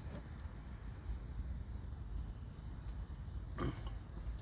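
Steady high-pitched chorus of crickets trilling, with a low rumble underneath and a single short click about three and a half seconds in.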